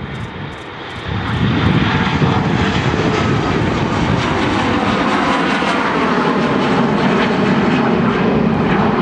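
Airliner passing close overhead, its engine roar swelling about a second in and then holding loud, with the engine tones slowly falling in pitch as it goes by.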